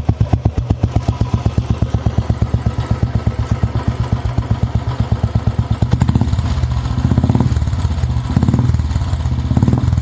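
Single-cylinder Royal Enfield engine running through an aftermarket Wild Boar barrel silencer: a steady, evenly spaced idle thump, then the throttle is blipped three times in the second half, the beats running together into louder revs.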